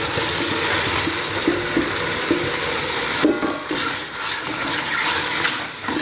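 Food sizzling in a hot pot while being stirred, with a few short scrapes and clinks of the spoon against the pot.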